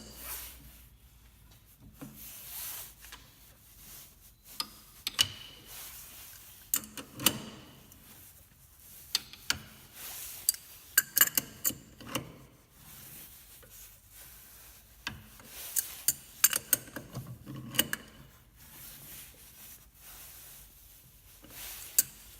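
Thread tap cutting an internal thread in a steel handle end, turned by hand with a spanner: irregular scraping with sharp metallic clicks and knocks.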